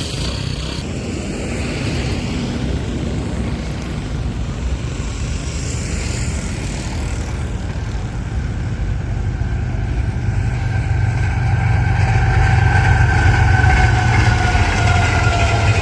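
Pakistan Railways Green Line Express, a diesel-hauled passenger train, approaching at speed: a steady rumble that grows louder through the second half. Two faint steady tones drop slightly in pitch near the end as the train nears.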